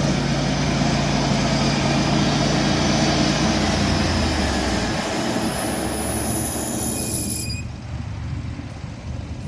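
Ventrac 4500Z tractor with its shredder attachment running, a loud steady machine noise with a thin high whine. The noise drops off sharply about three-quarters of the way through, leaving a lower rumble.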